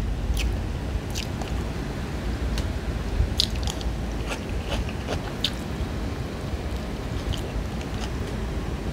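Chewing and biting on fried black bass, with irregular sharp crunches of the crisp fried fish, over a low steady hum.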